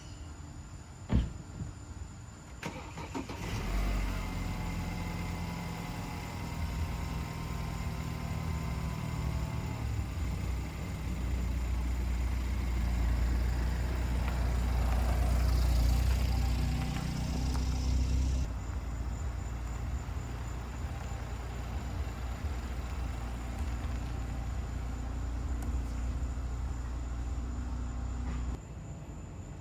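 A sharp click about a second in, then the Spartan RZ-HD zero-turn mower's engine cranks and starts. It runs steadily, louder for several seconds in the middle, and is shut off shortly before the end.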